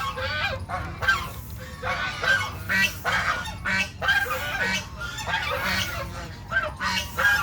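Geese honking over and over, harsh calls coming about once or twice a second and overlapping one another.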